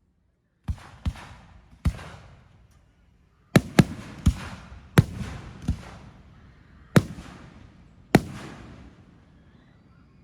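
Display fireworks bursting: about ten sharp bangs at an uneven pace, some in quick pairs, each trailing off in a decaying echo.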